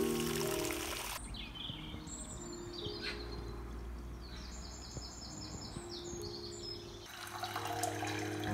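Garden birds singing, with scattered chirps and then a quick run of about ten repeated notes in the middle. A splashing water sound fades out at the start, and a hiss of water poured into a pan comes in near the end.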